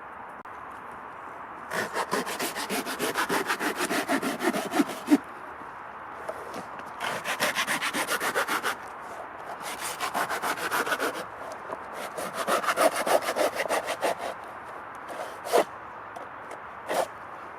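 Folding saw cutting through wood in four bouts of quick back-and-forth strokes, followed by two or three single knocks near the end.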